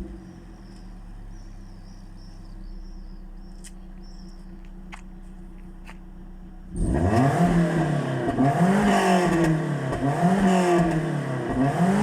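Toyota 3S-FE inline-four with a 3S-GTE exhaust fitted, idling quietly and evenly. About seven seconds in, the throttle is blipped and the engine revs up and falls back about four times, each rev much louder than the idle.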